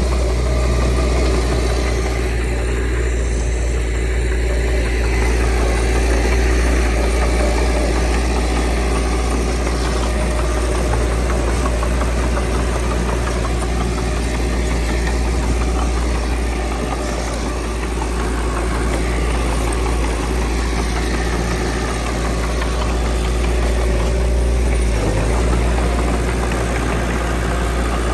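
Diesel engine of heavy earthmoving machinery running steadily with a deep, continuous low rumble and a knocking clatter.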